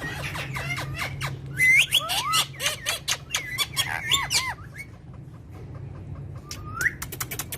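Parrot calling: a rapid run of squawks and sliding whistles mixed with sharp clicks, then a quieter pause of about two seconds before a rising whistle near the end.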